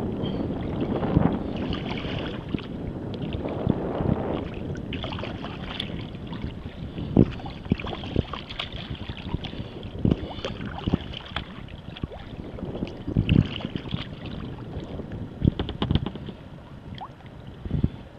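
Water splashing and sloshing around a kayak, with irregular short knocks and splashes from paddling, and wind buffeting the microphone.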